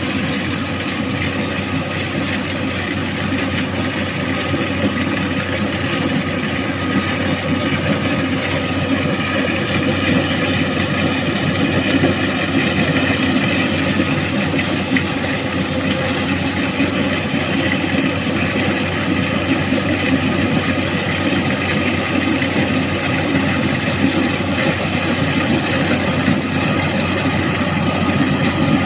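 An engine running steadily at a constant speed, a continuous drone with no change in pitch.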